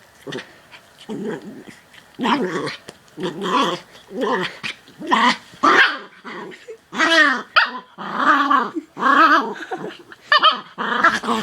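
Dog growling and barking in a run of about a dozen short growl-barks, roughly one a second, getting louder from about two seconds in.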